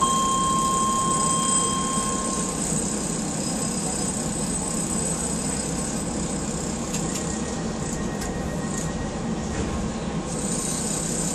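Docklands Light Railway train running, heard from inside the front of the car: a steady rumble and hiss from the wheels and running gear on the track. A steady high tone sounds for the first two seconds or so.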